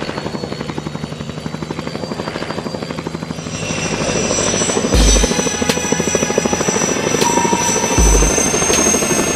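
Mi-2 helicopter's rotor beating in a fast, even pulse. Music comes in about a third of the way through, with heavy bass-drum hits.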